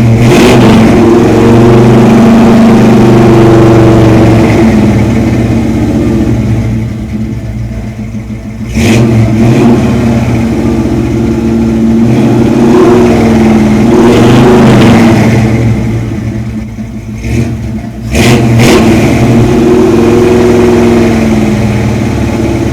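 A 1973 Ford Bronco's carbureted 302 (5.0 L) V8 is revved and held up three times for several seconds each, falling back toward idle for a moment in between. The exhaust is loud.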